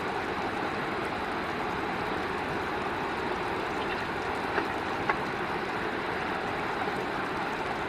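Steady rushing of a river flowing, with two faint clicks a little past halfway.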